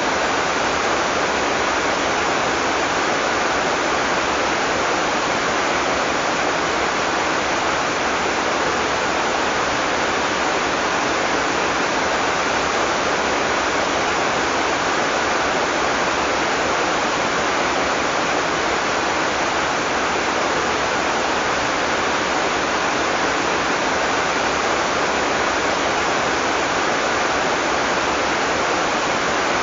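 Heavy tropical rain falling, a steady, even hiss without thunder.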